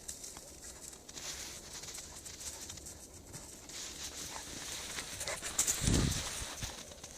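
Caucasian shepherd dog moving about and playing in snow: paws scuffling and crunching, with scattered clicks and one heavy low thump about six seconds in.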